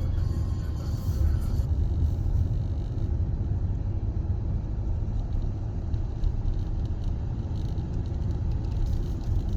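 Sea surf breaking on the beach, heard as a steady low rumble without distinct wave crashes.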